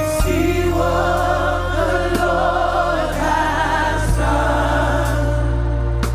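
Live gospel worship music: a choir or congregation singing over sustained keyboard and bass chords.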